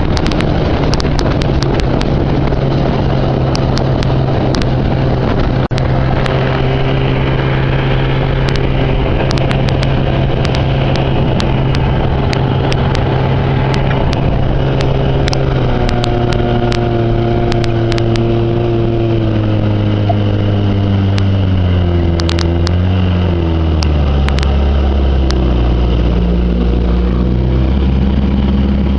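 1974 Evinrude 25 hp two-stroke outboard motor running steadily, then throttled back about halfway through, its pitch falling over several seconds and settling to a lower, steady run.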